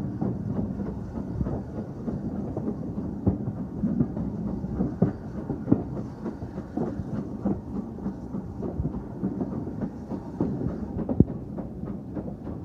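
Train running along the track: a steady low rumble of wheels on rail, with irregular clicks and knocks as it runs over rail joints, one knock stronger near the end.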